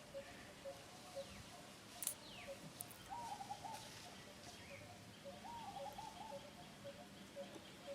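Faint outdoor bird calls: a short, low warbling call twice over a steady run of soft pulsing notes about three a second, with a couple of sharp clicks near the two-second mark.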